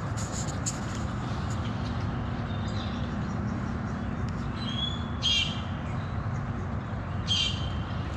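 Two short bird calls, about five and seven seconds in, over a steady low rumble.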